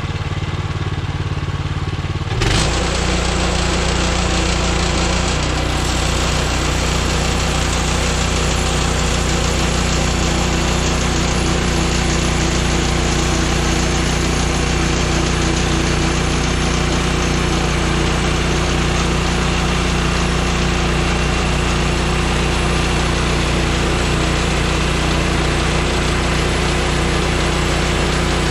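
Woodland Mills HM126 portable bandsaw mill's gas engine running steadily. About two seconds in it steps up to a louder, fuller steady run.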